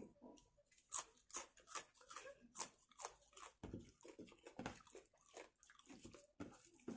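Close-miked chewing and crunching of food: a run of irregular mouth clicks and crunchy bites, a few each second.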